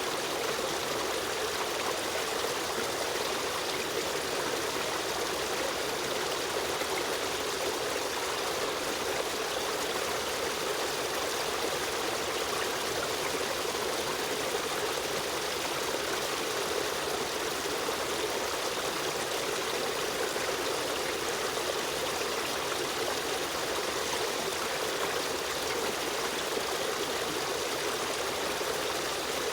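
Shallow river stream running and trickling over stones, a steady even rush of water with no changes.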